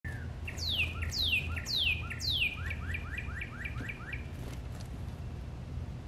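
A songbird singing: four loud whistles that sweep down in pitch, then a quicker run of about seven short rising notes, ending a little after four seconds in.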